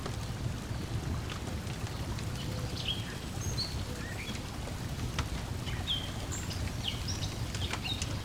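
Steady low wash of lake water lapping at the shore, with birds chirping in short, quick calls through the second half and scattered faint crackles from a wood fire.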